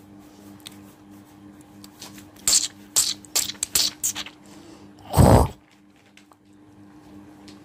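A woman hocking and spitting into a container close to the microphone: a quick run of short, sharp spitting sounds, then one loud, longer burst about five seconds in.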